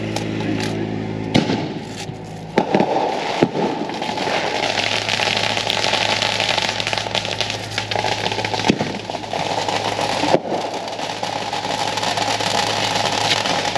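Consumer fireworks going off: a few sharp pops in the first couple of seconds, then dense, continuous crackling with louder bangs now and then.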